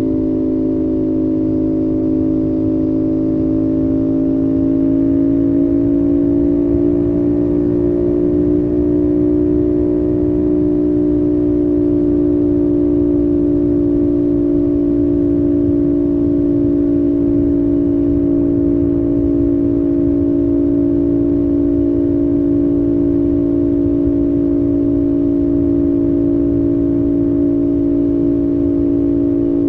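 CFMOTO 450SS's 449 cc parallel-twin engine at steady cruising revs on the expressway. Its pitch rises slightly a few seconds in, then holds level over a constant rush of wind and road noise.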